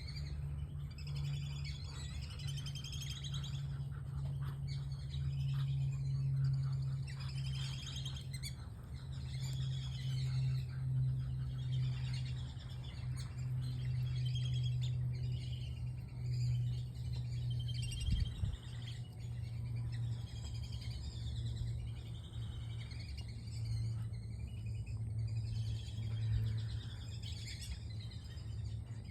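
Many birds chirping and peeping in short, high calls, continuous throughout, over a steady low hum. One brief low thump comes about two-thirds of the way through.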